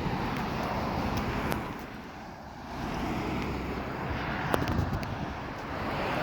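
Road traffic noise with wind on the microphone, easing for a moment about two seconds in.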